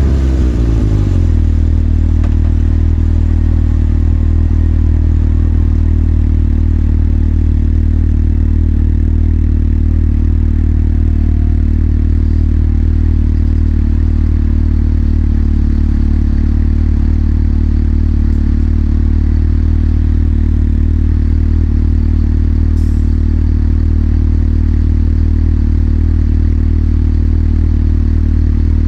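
Motorcycle engine slowing from revs down to idle about a second in, then idling steadily.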